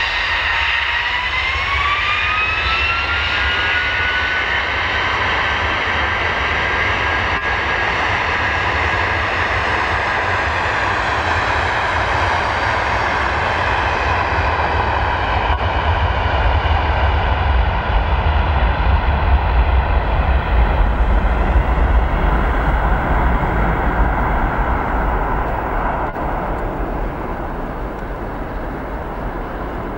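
Boeing 757-200's Rolls-Royce RB211 engines spooling up to takeoff power: a whine rises in pitch about a second in, then holds over a steady jet roar. A deep rumble grows loudest around two-thirds of the way through and then eases.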